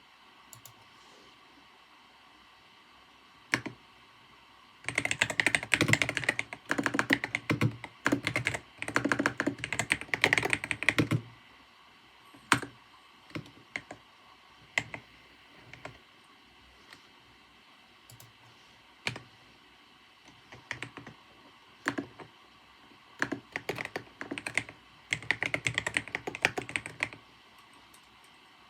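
Typing on a computer keyboard: two fast runs of key clicks, one about five seconds in lasting some six seconds and another near the end, with a few single keystrokes and pauses between.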